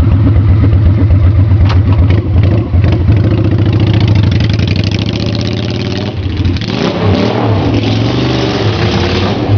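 Honda Shadow V-twin motorcycle with straight pipes running loud with a rumbling exhaust, ridden and revved inside a covered bridge. The engine note dips about six seconds in, then rises and falls as the throttle is worked.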